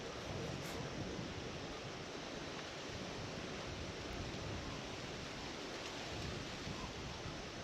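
Steady wind noise, a low rumble with an even hiss.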